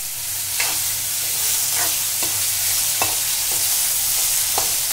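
Chopped onion and tomato sizzling in oil in a nonstick pan, with a steel spatula scraping and stirring against the pan about every half second to a second.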